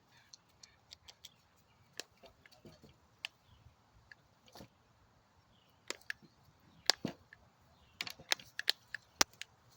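Irregular sharp clicks and snaps, sparse at first and clustering near the end, as a pit bull puppy grips and tugs on a spring pole rope.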